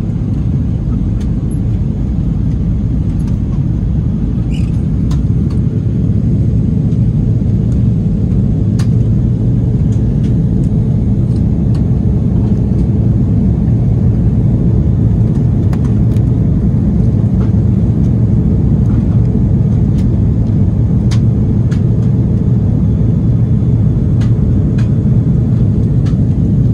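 Steady low rumble inside the passenger cabin of an Airbus A330-300 in motion, with a few faint clicks and rattles scattered through it.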